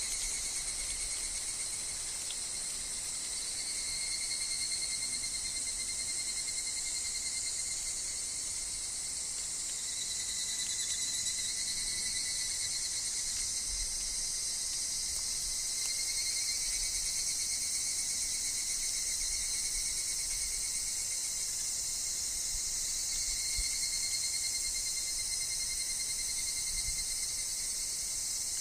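Dense, steady chorus of insects in summer woodland, a high shrill wall of cicada and cricket song, with a thinner, slightly wavering trill lower down. Faint low rumbles of wind come and go.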